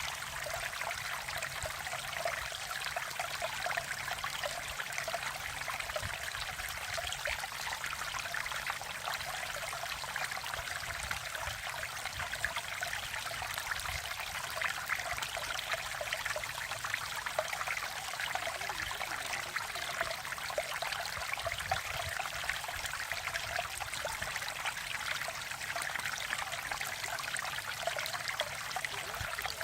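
Mountain stream water flowing and babbling over rocks, a steady rushing with fine trickling detail.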